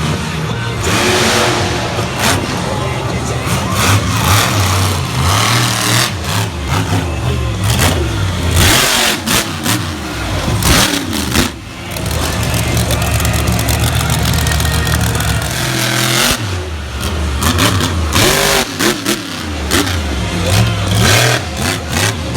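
Monster truck engine revving hard, its pitch rising and falling as the throttle is cut and opened again several times, with a few sharp bangs along the way.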